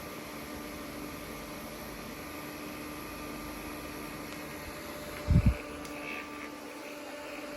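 USB mini fan running steadily: an even rushing noise with a steady motor hum. Two short, low thumps come about five seconds in.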